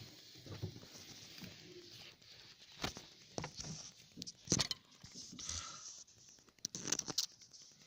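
Rustling, scraping and a few sharp knocks of hands and the recording phone moving around the engine bay, with loud knocks about three, four and a half and seven seconds in.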